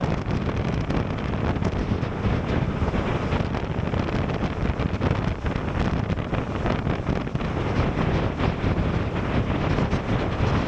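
Strong, steady wind noise buffeting the microphone: an even rush with a heavy low rumble and no distinct tones.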